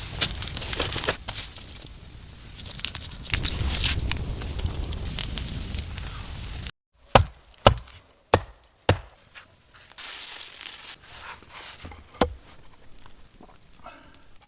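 Rustling and crackling of dry leaves and branches being handled, then, after a sudden break, sharp knocks of wood being chopped: four strikes about half a second apart and one more a few seconds later.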